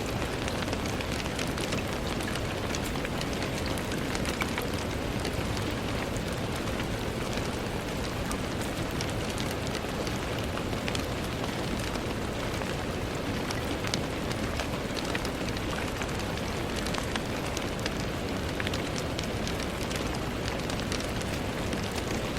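Steady rain falling on a window, a constant hiss with many small drop taps.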